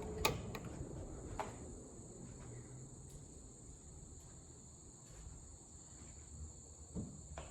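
Four Emerson ceiling fans (two K55 fiberglass heat fans, a Stratojet and a Designer) coasting down after being switched off: a faint low whoosh of the turning blades slowly fading, with a few light clicks. A steady thin high-pitched tone sits over it.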